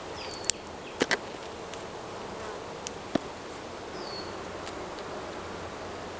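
Swarm of Italian honeybees buzzing steadily around an opened hive, with a few sharp clicks about half a second, one second and three seconds in.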